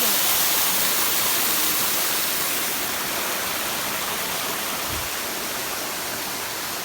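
Waterfall: a steady rush of falling water that grows gradually quieter.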